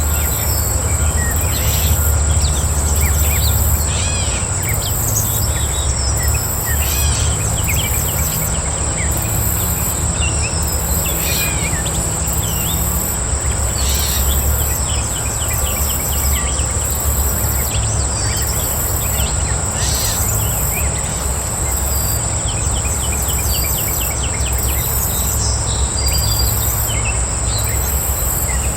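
Wild birds chirping and calling in short scattered phrases over a steady high-pitched insect trill, with a second, higher insect sound pulsing about once a second. A steady low rumble runs underneath.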